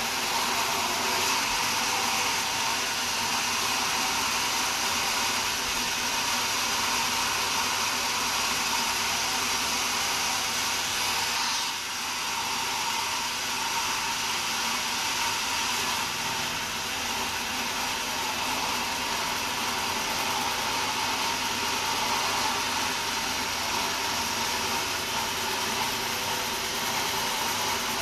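Large sawmill saw running steadily as it saws a wadang log, a loud even whirring noise that dips briefly about twelve seconds in.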